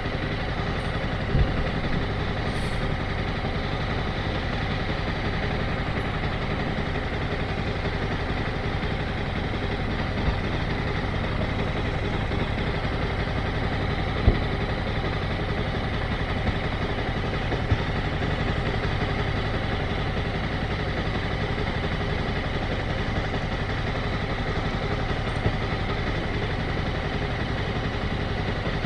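Motorcycle engine idling steadily at an even speed, with a few small clicks over it.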